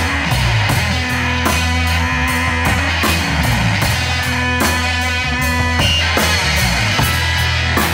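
Blues band playing live, with guitar over a moving bass line and a steady drum kit beat.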